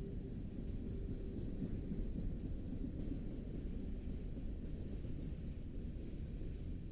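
Train rumbling steadily, a deep, even rumble with no horn or clear clicks.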